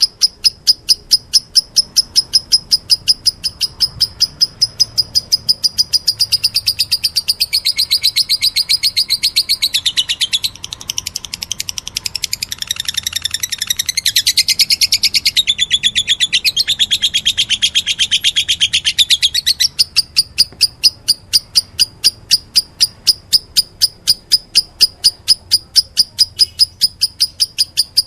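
Lovebird chicks begging to be fed, a rapid, even run of high chirps about three a second. From about six seconds in the calls grow denser and more varied, then settle back into the even chirping near twenty seconds.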